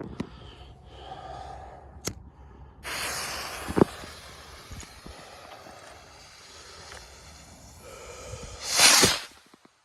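Fireworks going off: a sharp crack, then a sudden hissing rush about three seconds in with a bang just before four seconds, crackling that fades, and a louder burst of noise near the end.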